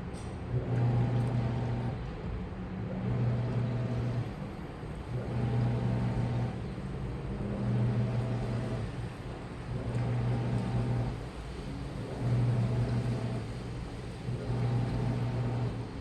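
Washing machine running its wash cycle: the motor turns the drum in bursts of about a second with short pauses between, repeating roughly every two seconds, over a steady churning noise.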